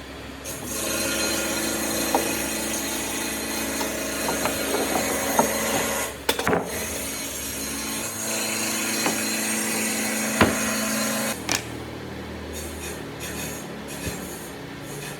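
A power tool working wood, running for about ten seconds with a short break midway and a few sharp knocks, then cutting off suddenly.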